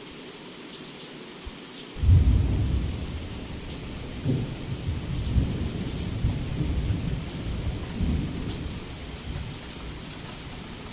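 Heavy rain falling steadily, with scattered drops ticking, when a thunderclap breaks about two seconds in and rolls on in several deep rumbles before fading away near the end.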